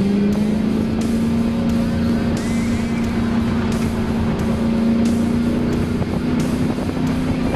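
Car engine heard from inside the cabin, running at a steady, held pitch that climbs slowly, with road rumble underneath.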